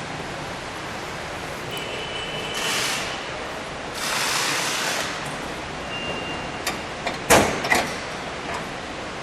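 A car's hood being released and opened: a couple of brief rustling, scraping sounds, then a sharp metal clunk about seven seconds in, followed quickly by a smaller knock.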